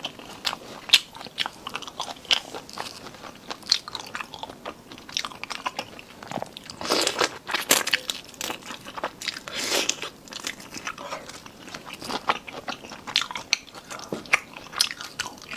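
Close-up chewing and crunching of cold marinated seafood that is still partly frozen, with many sharp crackly crunches, densest about halfway through.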